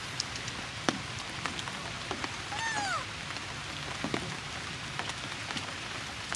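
Steady rain falling on surfaces, with scattered drips ticking through it. About two and a half seconds in, a short squeak rises and falls in pitch.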